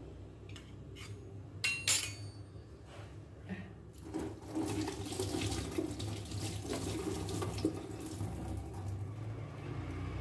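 A few metal utensil clinks, then from about four seconds in a steady crackling sizzle of kerupuk crackers frying in hot oil.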